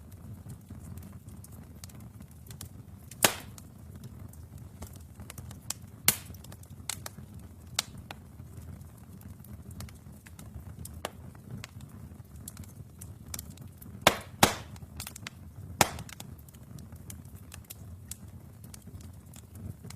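Wood fire burning in a fireplace: a steady low rumble of the flames with scattered sharp crackles and pops, the loudest about three seconds in, about six seconds in, a close pair near fourteen seconds, and one near sixteen seconds.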